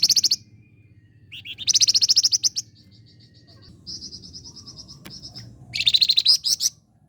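Flamboyan songbird singing: loud bursts of rapid, high chattering notes, with fast trills of evenly repeated notes between them. It falls silent shortly before the end.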